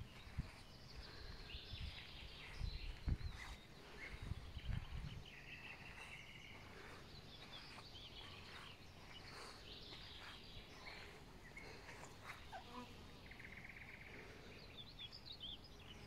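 Faint songbirds chirping and trilling, with one buzzy trill near the end. A few soft low thumps come in the first five seconds.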